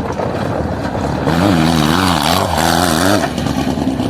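Off-road motorcycle engine running under way, its pitch wavering up and down as the throttle changes, with a broad rush of wind noise over it.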